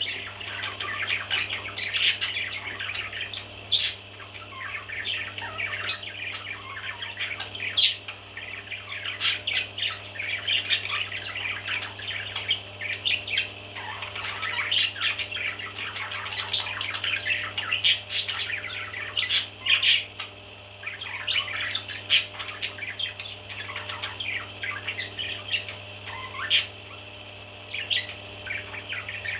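A group of baby parrots chirping and squawking without pause, with many calls overlapping and sharper, louder squawks every second or two.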